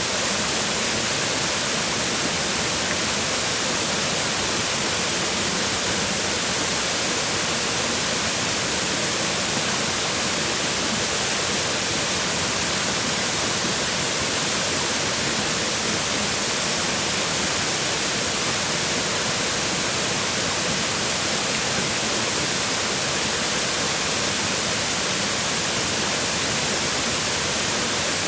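Waterfall: water falling and splashing on rocks, a steady, dense rush of noise.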